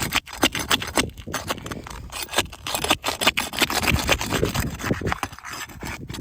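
Asphalt roof shingles being pried up and pulled apart: repeated irregular scraping and crackling as each shingle's sealant bond to the one below is broken.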